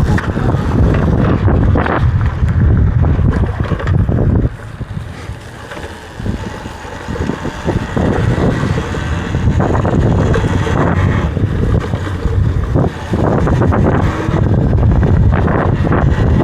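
Wind buffeting the microphone of a rider moving on an electric dirt bike, a loud low rumble that eases off for a few seconds about a third of the way in and then comes back.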